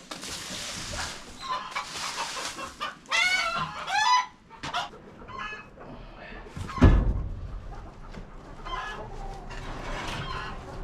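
Chickens clucking and squawking, with a burst of calls about three seconds in and one loud thump about seven seconds in.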